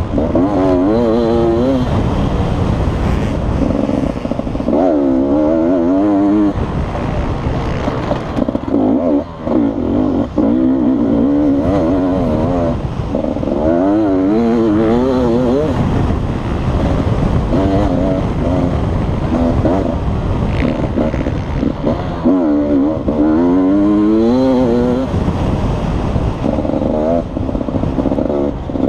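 Beta RR 300 two-stroke enduro motorcycle engine at race pace, its pitch repeatedly rising and dropping as the throttle is worked and the gears change. Heard from the rider's helmet camera, over a constant low rumble.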